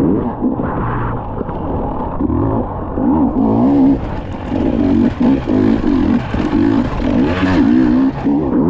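Dirt bike engine revving up and down continuously as the bike is ridden over rough ground. A rushing hiss joins it from about three and a half seconds in until near the end.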